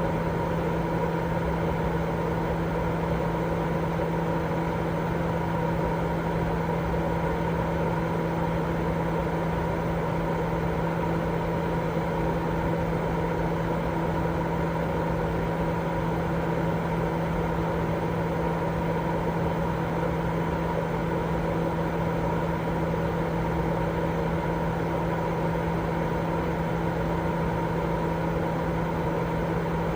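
Continuous white noise for baby sleep: an even rushing noise with a steady low hum and a fainter higher tone in it, unchanging throughout.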